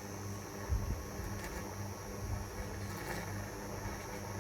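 Handheld Nanofoamer milk frother's small motor running steadily in a pitcher of heated milk: a low, even hum over a soft hiss.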